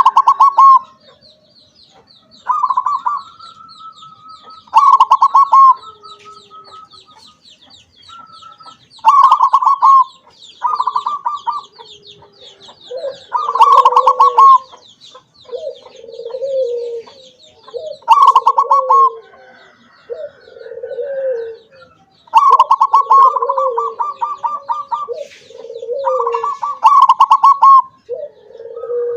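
Perkutut (zebra dove) singing: repeated phrases of rapid, stuttering coos, with lower-pitched coos coming in from about halfway through. A thin, fast high chirping runs beneath the first half.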